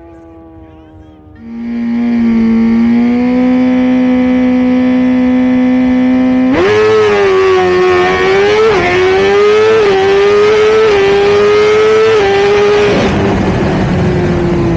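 Suzuki GSX-R1000's inline-four with a Brock's exhaust, held at one steady high rpm for several seconds on the start line. About halfway through it launches and pulls hard through the gears, the pitch climbing and dropping back at each of four quick upshifts. It fades near the end as the bike runs away down the drag strip.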